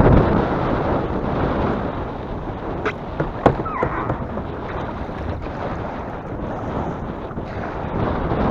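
Strong wind buffeting the microphone in a steady loud rush, with a few sharp knocks about three and a half seconds in.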